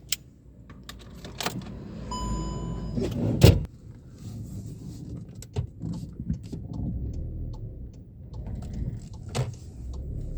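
Handling noises: scattered clicks and knocks over a low rumble, with an electronic beep lasting about a second and, right after it, a heavy thump.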